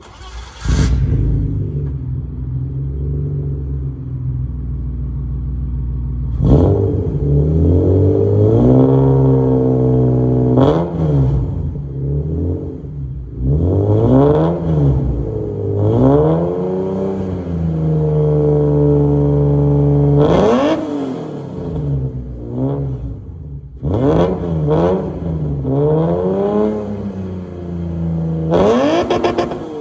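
BMW E30 engine and exhaust starting up about half a second in and idling steadily. From about six seconds on, it is revved repeatedly in short blips, each rising and falling in pitch, on the exhaust as it is before the "Angry Housewife" was added.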